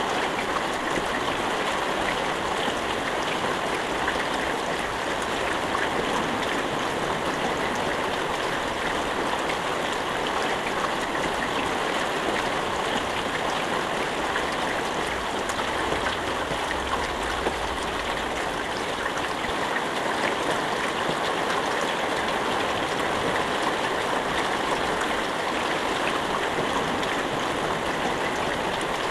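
Steady rainfall, an even dense hiss of many drops with no thunder.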